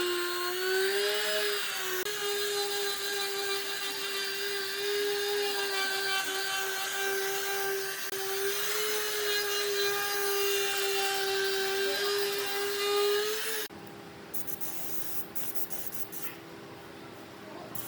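A high-speed electric power tool running on wood with a steady whine that dips slightly under load, then cutting out abruptly about fourteen seconds in, leaving a quieter hiss.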